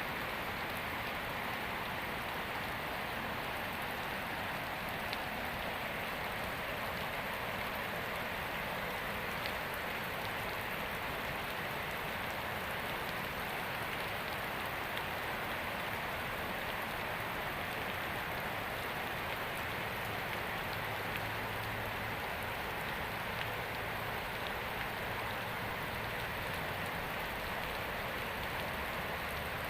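Heavy tropical downpour: steady, even hiss of rain pouring down, with no let-up.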